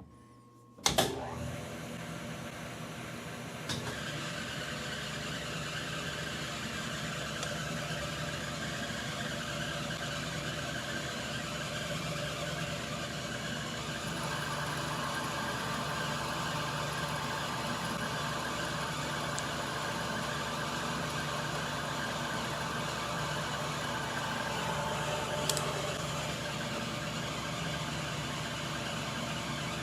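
Metal lathe switched on about a second in with a click, its motor and spindle then running steadily.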